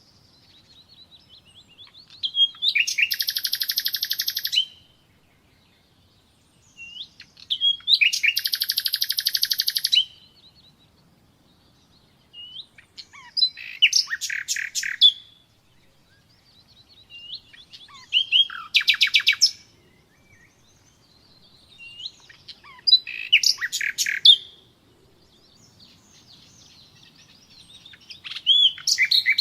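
Common nightingale singing: six separate phrases, each a few seconds apart, some a fast run of repeated notes and some a dense buzzing trill, with soft thin notes in the pauses between them.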